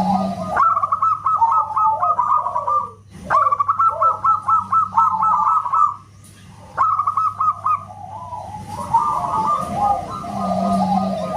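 Zebra dove (perkutut) song: rapid runs of short staccato cooing notes, with lower falling notes beneath them. The song breaks off briefly about three seconds in and again around six seconds, over a faint steady low hum.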